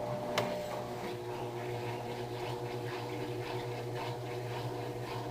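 Electrolux LTR10 top-loading washing machine running with a steady motor hum, with one sharp click about half a second in.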